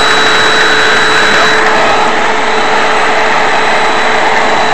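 Hoover Z700 upright vacuum cleaner running steadily after being switched on: a loud motor rush with a steady high whine over it.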